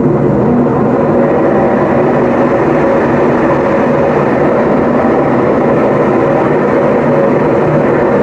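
Consul Facilite 10 kg top-loading washing machine spinning, with a loud, steady mechanical din throughout. It is very noisy, which the technician puts down to damaged drum bearings.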